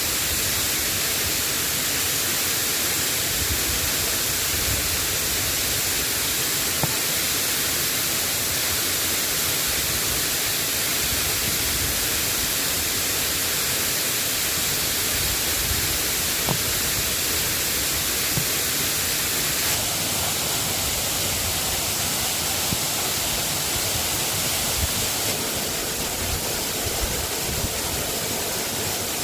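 Steady rain falling, an even hiss, with a couple of faint single ticks.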